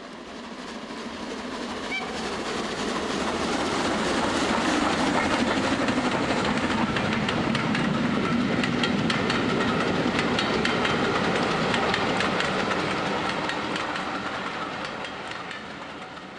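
Miniature steam train running on its track, its wheels clicking over the rail joints. The sound grows louder over the first few seconds and fades away near the end.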